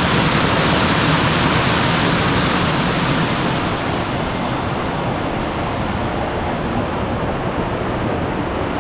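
Nojoqui Falls waterfall rushing: a loud, steady roar of falling water, its high hiss thinning about four seconds in.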